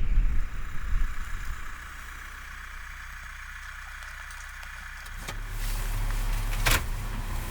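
A car running, heard as a steady low hum: loud rumbling for the first couple of seconds, quieter for a while, then a stronger low hum from about five seconds in, with a couple of sharp clicks near the end.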